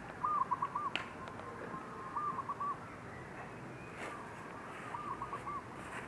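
A bird calling: three short runs of about four quick, arched notes each, roughly two seconds apart, with a couple of faint clicks in between.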